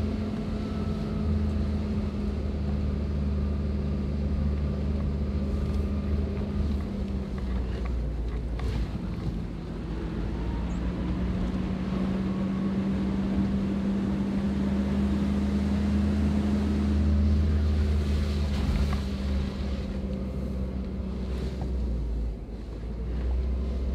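Toyota Prado four-wheel drive's engine running steadily while driving. Its note dips about eight seconds in, then climbs again and eases off near the end.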